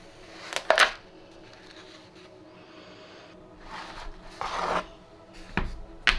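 Rubbing and scraping in a few short bursts as a hand-carved lino cut stamp is test-printed on paper, ending in a low thump and a sharp click.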